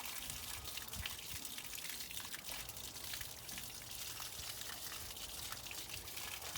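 Water pouring and splattering steadily as a hose flushes rusty water out of the snowcat's radiator.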